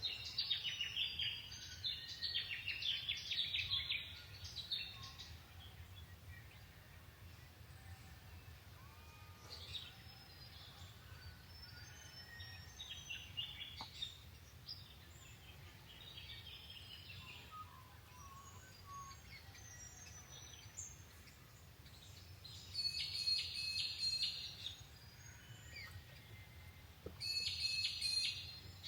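Birds chirping and trilling in bursts, busiest at the start and again in two spells near the end, over a steady low rumble of outdoor background noise.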